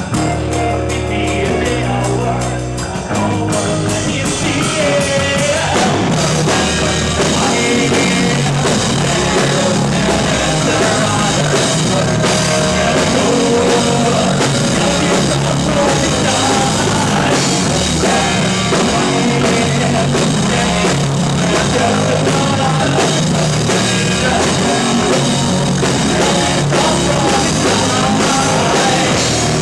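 Rock band playing live: drum kit, bass and guitars, with a quieter opening that builds into the full band with singing after a few seconds.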